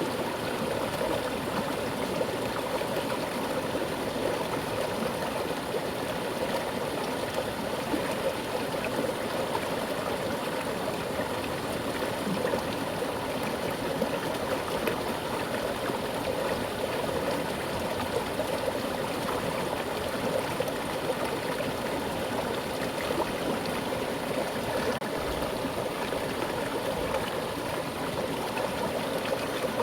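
Mountain stream flowing with a strong current over rocks: a steady rushing and gurgling of water.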